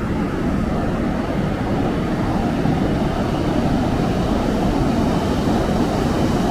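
Ocean surf rumbling steadily on a beach, a continuous low wash with no distinct single wave crash.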